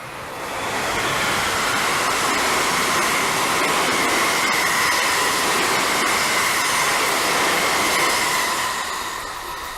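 A train passing close by on the line: the rush of wheels on rail builds over about a second, holds steady with a high whine running through it, and fades away near the end.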